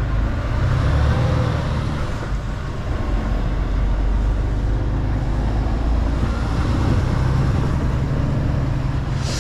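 Mercedes-Benz Actros L truck's diesel engine running steadily under way, a low drone with a haze of road and tyre noise over it.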